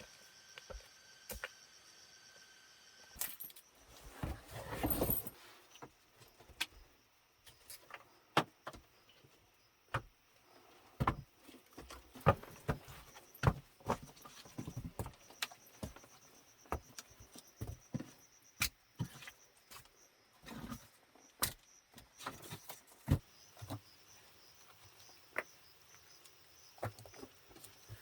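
Irregular sharp knocks and clicks, with a brief rustling burst about four seconds in, over steady high-pitched insect calls in the background.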